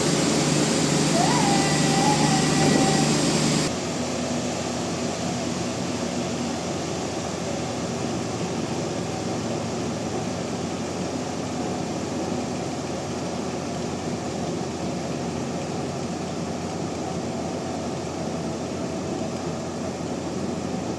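Sawmill machinery running with a steady mechanical drone. About four seconds in, the sound drops abruptly to a quieter, even hum that holds steady.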